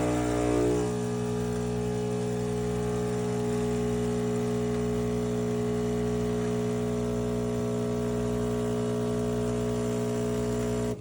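Fully automatic coffee machine running with a steady buzzing hum, which wavers briefly about a second in and then holds steady until it stops abruptly.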